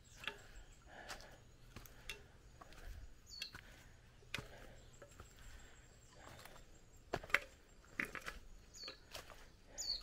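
Jungle ambience: birds calling with short high whistles that drop in pitch, three times, among scattered chirps and clicks over a faint steady low hum.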